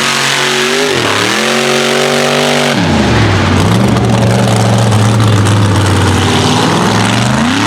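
A mega truck's engine revving hard as the truck runs the mud track. Its pitch dips sharply and climbs back about a second in, falls again near three seconds, then holds high and steady.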